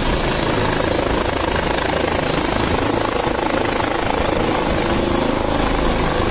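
Helicopter close by, its rotor and engine running with a steady, loud chopping noise.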